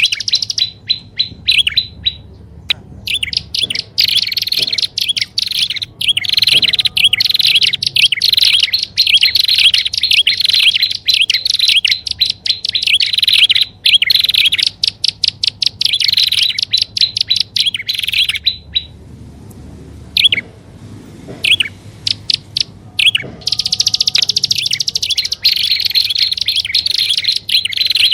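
Prinias (prenjak) calling: rapid trains of sharp, high chirps played as a bird-lure recording, with a lull of a few seconds past the middle before the fast chirping starts again.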